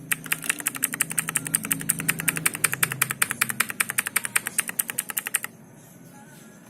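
Rapid, even clicking, about ten clicks a second, that goes on for about five seconds and then stops abruptly, over a low steady hum.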